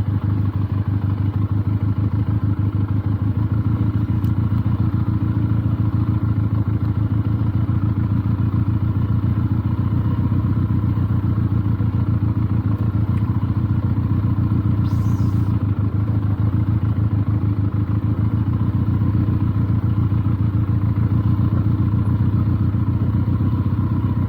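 Benelli TnT 300's parallel-twin engine running at low, steady revs as the motorcycle is ridden slowly over rough ground.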